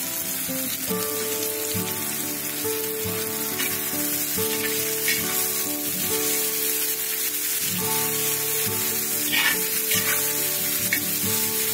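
Tomato-onion masala sizzling on a cast-iron tawa while a metal spatula stirs and scrapes through it, with several sharper scrapes along the way. Soft instrumental background music with held notes plays underneath.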